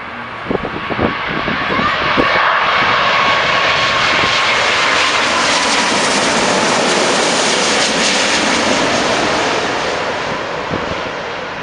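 Boeing 777-200ER jet airliner flying past on its landing approach: the engines' roar swells to a peak about halfway through and then fades, with a whine that drops slightly in pitch as it goes by. A few short knocks are heard in the first second.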